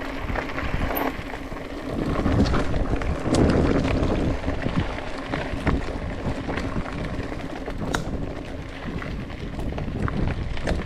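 Wind buffeting the microphone over the rolling rattle of a mountain bike on a trail, with scattered clicks and knocks, louder for a few seconds about two seconds in.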